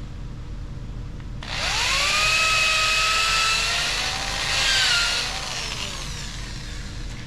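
Power drill spinning up with a rising whine, running steadily into a white birch branch, its pitch wavering and dropping briefly under load before it stops.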